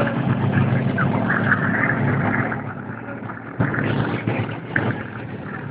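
Monster truck engine running, recorded on a phone's microphone; the sound dips about halfway through and comes back suddenly about two-thirds of the way in.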